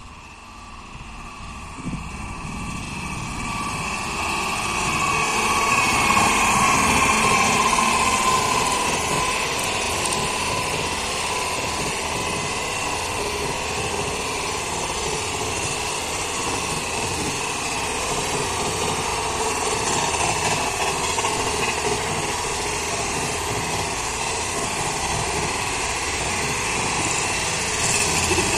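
Indian Railways passenger train approaching and running past, its coaches rumbling along the track. The sound swells over the first several seconds, then holds steady as the coaches go by, with a whine that falls slightly in pitch as the front passes.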